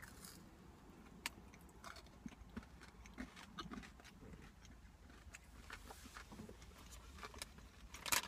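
A person biting into and chewing a Muscletech Nitro Tech Crunch protein bar with crunchy pieces on its coating: faint, scattered crunching and mouth clicks, with a brief louder sound near the end.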